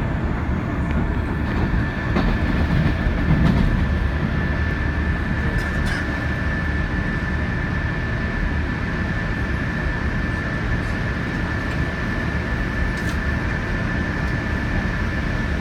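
Odoriko limited express train running along the line: steady rumbling running noise with a thin, steady high whine above it, swelling slightly about three seconds in.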